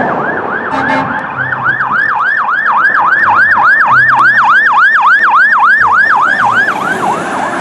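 Electronic siren in a fast yelp: rapid rising-and-falling pitch sweeps, about three a second, loud and steady, thinning out near the end.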